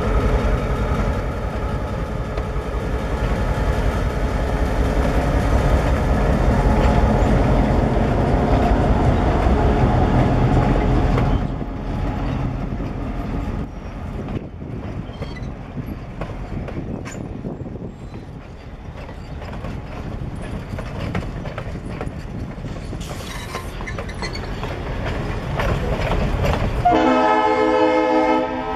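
Ex-Norfolk Southern EMD diesel locomotive passing close with its engine running under load, then passenger cars rolling by with their wheels clicking over the rail joints. Near the end a multi-chime train horn sounds.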